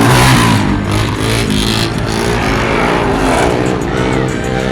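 Car engine revving loudly, its pitch rising and falling several times, with exhaust noise.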